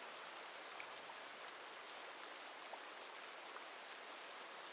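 Steady rain falling, an even hiss with scattered soft drop ticks.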